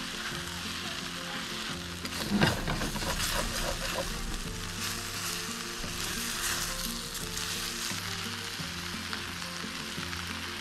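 Yakisoba noodles with tofu and kimchi sizzling and frying in a hot pan on a portable butane stove while being stirred with a wooden spatula and tongs. The frying is steady, with one brief louder burst about two and a half seconds in.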